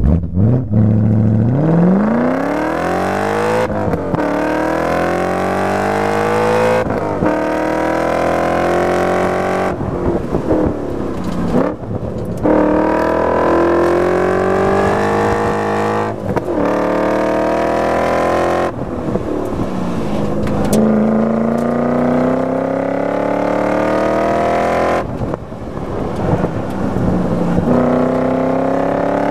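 2001 BMW E39 M5's 4.9-litre V8 with a muffler delete, heard from inside the cabin, launching hard from a standstill and then pulling repeatedly through the revs. The pitch climbs with each pull and drops sharply at each shift or lift, several times over.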